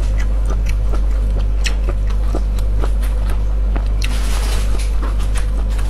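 Close-miked chewing of a ring sausage: repeated wet mouth clicks and smacks, with a brief louder rush of noise about four seconds in, over a steady low hum.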